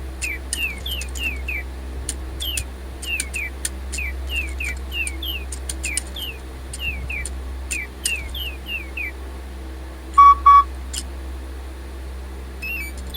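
Electronic DigiBird robot toy birds chirping: a quick run of short, falling electronic tweets with small clicks for about nine seconds. About ten seconds in come two loud electronic beeps, like a beeping telephone, which the owner takes for a sign of low batteries.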